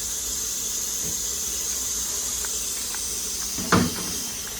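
Steady hiss of a pot cooking on the stove, with a few faint ticks. One sharp knock comes about three and a half seconds in.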